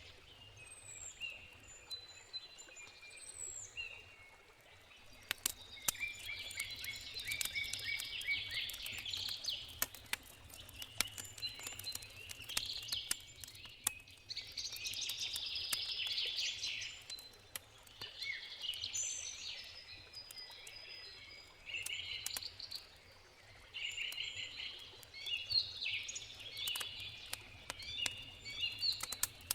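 Songbirds singing in repeated, overlapping bursts of chirping phrases, with the sharp snaps and pops of a crackling campfire scattered through.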